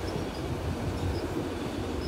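Freight train cars rolling past: a steady low rumble of steel wheels on the rails as a string of enclosed autorack cars goes by.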